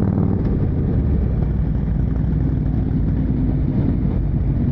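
Motorcycle engine running steadily while riding, with wind and road noise on the on-bike microphone.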